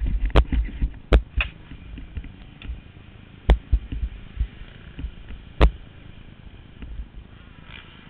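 Motocross bike engines buzzing at a distance, heavier for the first second or so, with four sharp thumps, the last two about two seconds apart.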